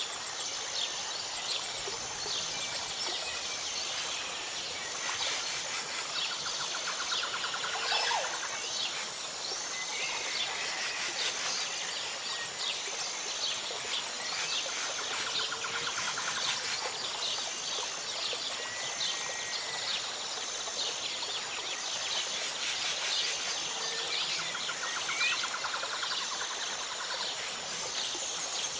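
Forest ambience: a steady high insect drone with a short high call repeating every second or so, rapid pulsing trills now and then, and scattered bird calls and chirps.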